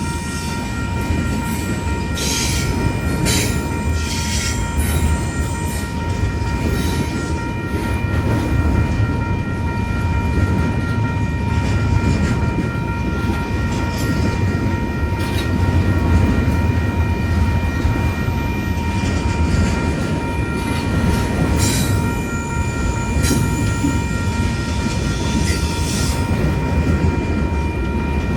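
A train passing close by, a steady heavy rumble with a steady high-pitched whine held throughout and scattered clicks. Wind on the microphone adds to the low rumble.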